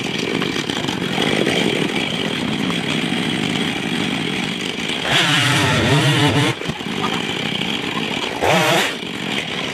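Husqvarna chainsaw running steadily, revved up hard twice: for over a second about five seconds in, and briefly near the end.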